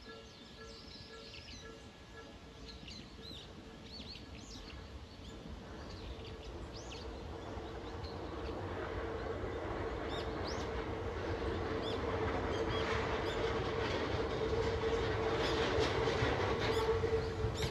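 Hakone Tozan Railway electric train approaching on the mountain line, its sound growing steadily louder with a steady hum, while small birds chirp through the first half.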